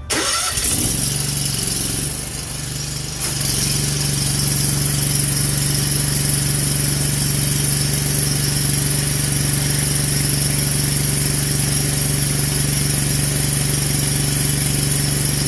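A pressure washer's engine starts up. About three seconds in it gets louder and settles into a steady run.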